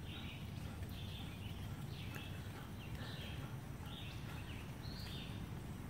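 Park ambience: a bird repeats a short raspy call roughly once a second over a steady low rumble.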